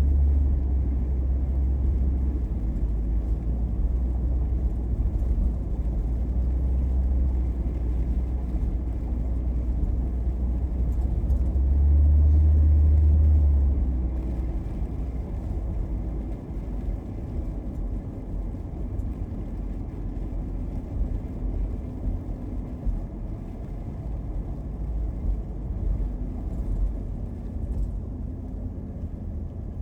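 Car driving through a snowstorm, heard from inside: a steady deep rumble of engine and tyre noise. It grows louder briefly, then drops to a lower, rougher rumble about halfway through.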